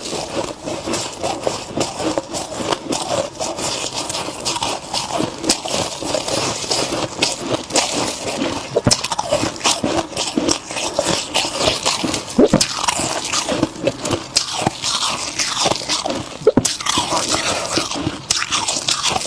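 Close-up crunching and chewing of freezer frost: a dense run of crisp, irregular crackles and snaps as mouthfuls of frost are bitten and chewed.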